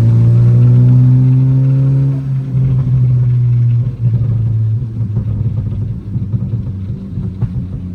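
Car engine accelerating with a rising pitch, then a gear change about two seconds in, after which it runs on more steadily.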